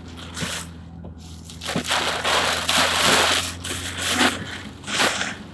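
Heavy storm rain and wind beating on a car from inside the cabin, a dense hiss that swells and eases in gusts, with a steady low hum of the car underneath.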